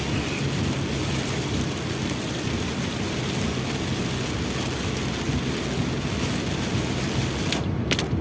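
Heavy rain pelting a moving car, a steady loud hiss over the low hum of the engine and tyres. The hiss briefly drops away near the end, with a couple of clicks.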